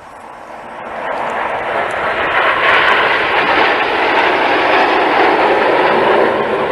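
Red Arrows BAE Hawk jet trainers passing overhead. The noise of their jet engines swells over the first second or two and stays loud.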